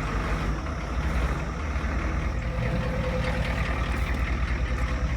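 Ford 6.9-litre IDI V8 diesel idling with a steady, even rhythmic beat, warming up just after a cold start.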